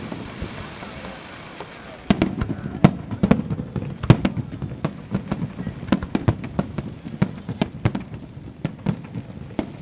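A fireworks display: after a quieter start, a rapid, irregular run of sharp bangs and crackles begins about two seconds in and keeps going.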